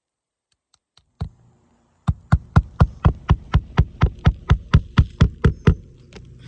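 Hammer driving a roofing nail into an asphalt shingle. One tap comes first, then a quick, even run of about fifteen strikes at roughly four a second.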